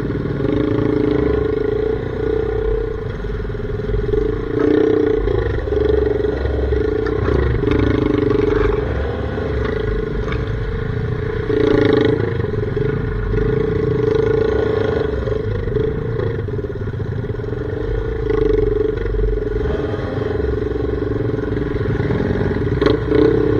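Dirt bike engine running on a trail ride, the engine note swelling and easing repeatedly as the throttle is worked, over a low rumble.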